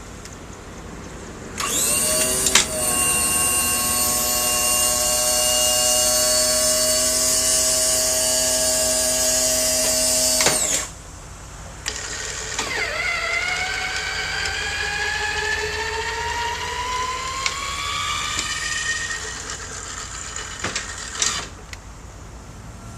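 Electric hydraulic pump motor of a school bus wheelchair lift whining in two runs. The first is steady for about nine seconds and starts and stops abruptly; after a short pause the second rises slowly in pitch. A couple of clicks come near the end.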